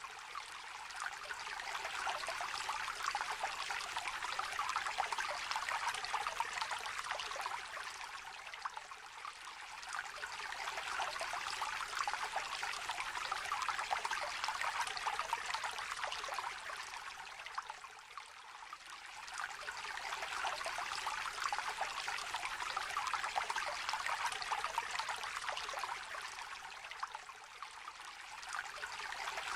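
Small stream trickling and babbling, a steady rush of water that swells and eases every several seconds.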